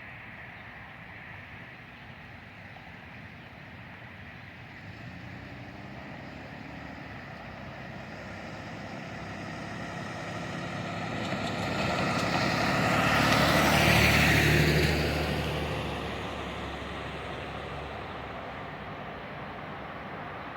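BNSF freight train's diesel locomotives approaching and passing: the engine rumble grows louder, is loudest about two-thirds of the way through, then drops back to the steadier noise of the train rolling by.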